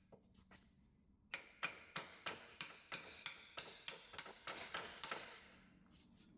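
A run of about a dozen sharp metallic taps, roughly three a second, each ringing briefly, then stopping: a tool being tapped against the oil sump to break its sealant seal from the engine block.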